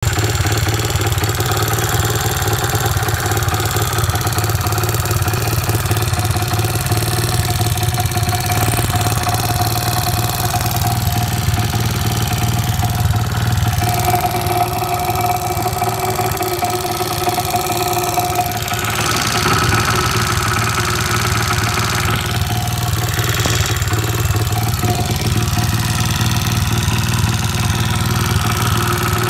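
Motorcycle engine idling steadily, with a whine over it that steps higher about two-thirds of the way through; the owner calls the noise weird.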